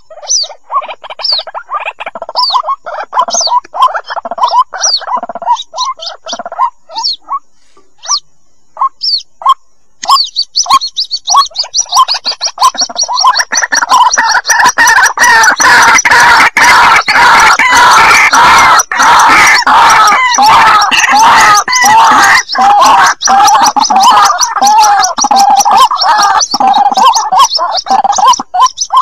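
White-breasted waterhen chicks calling. Scattered short cheeps give way, about ten seconds in, to a dense run of high cheeps, joined a few seconds later by louder, lower calls in rapid succession.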